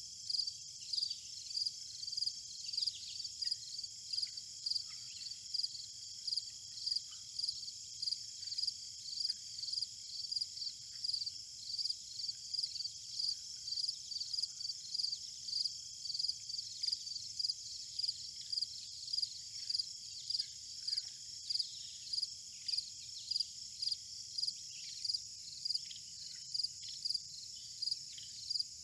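Field insects such as crickets: a steady high-pitched buzz with a regular chirp about twice a second, and faint short bird calls scattered through.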